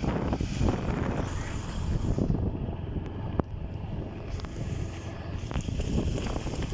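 Wind buffeting the microphone on a moving Bajaj Pulsar 150 motorcycle, a dense low rumble, with a single sharp click about three and a half seconds in.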